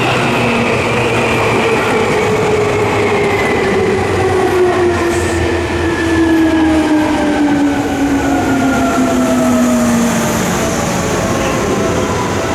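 Electric train on the Seibu Line running past a level crossing: a loud, steady rail rumble with a motor whine whose pitch falls slowly over about ten seconds.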